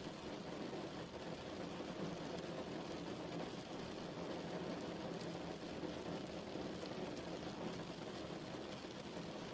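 Steady rain falling, an even hiss without breaks or distinct drops.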